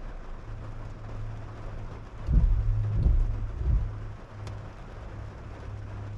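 A car driving in the rain, heard from inside: a steady low hum of engine and road noise under a haze of rain, with scattered small ticks. About two seconds in come three low thumps roughly two-thirds of a second apart.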